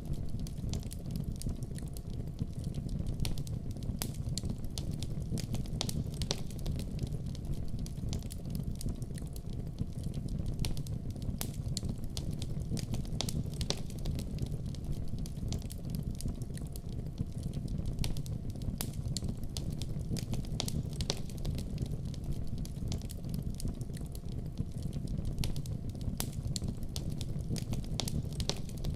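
Fire burning in a fireplace: a steady low rumble with frequent sharp crackles and pops scattered over it.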